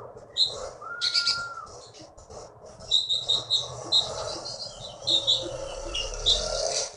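A konin songbird singing in full song: runs of quick, high chirping notes, with a short held whistle about a second in.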